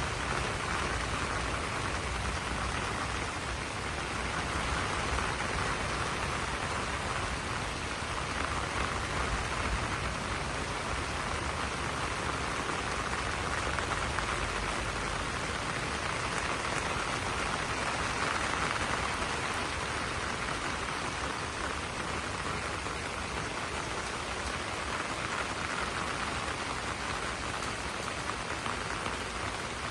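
Steady rain falling on banana leaves, an even hiss of drops with no breaks.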